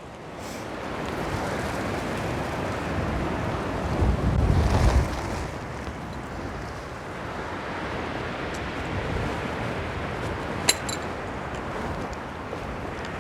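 Wind blowing across a clip-on wireless microphone with rustling of tent fabric being handled, a stronger gust rumbling on the microphone about four seconds in. A single sharp click comes about eleven seconds in.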